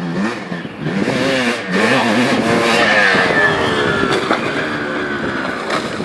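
Motocross motorcycle engines revving, their pitch rising and falling, with one long falling note through the middle as a bike backs off the throttle.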